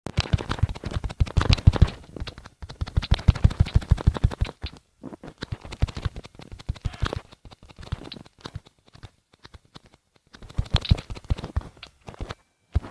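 Rapid runs of sharp clicks or taps in bursts lasting a few seconds each, thinning out midway and pausing briefly before a last burst.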